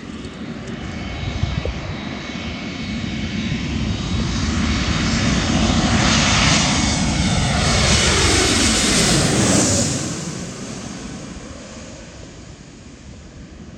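Jet airliner passing low overhead: the engine noise builds over several seconds to a loud peak, then drops in pitch as the plane goes by and fades.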